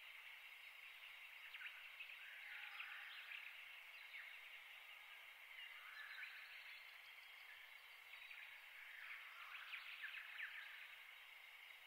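Faint outdoor ambience: a steady soft hiss with distant bird chirps in a few short clusters, about two, six and ten seconds in.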